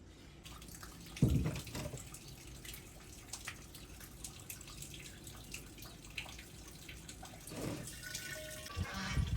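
Water running and splashing, as in washing at a sink, with many small clicks and knocks and a louder dull thump about a second in and again near the end.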